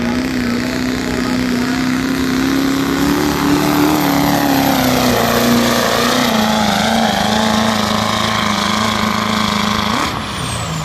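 Turbocharged Duramax diesel pickup engine running at full throttle under the load of a pulling sled. Its pitch climbs a little, sags about halfway through as the load builds, and then holds steady. About ten seconds in the throttle is released: the engine drops off sharply and a high turbo whistle winds down.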